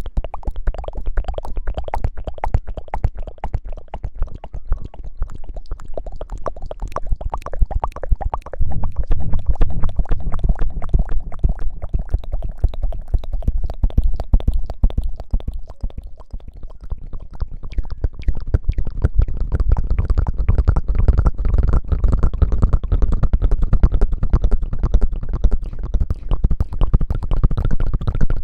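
Close-miked ASMR hair-washing sounds: continuous wet squishing and rubbing right at the microphone, with a dense crackle over a deep rumble. It gets louder about a third of the way in, eases briefly around the middle, then builds again.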